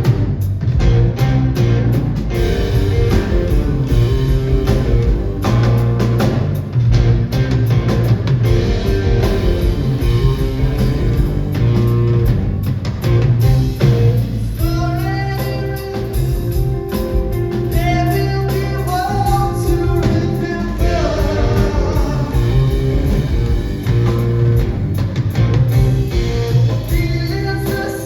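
Live rock band playing a blues-rock song: electric guitar over bass and drums, with singing coming in about halfway.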